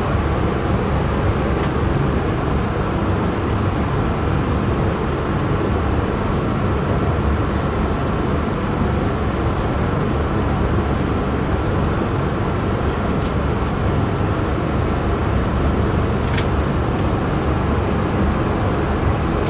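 Steady cabin noise inside a Boeing 787-8 airliner in flight: an even, unchanging rush of airflow and jet engines, strongest in the low end.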